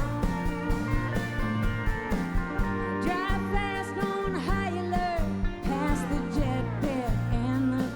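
Live band playing a country-rock song: a steady drum beat under guitars, with a bending lead line in the middle.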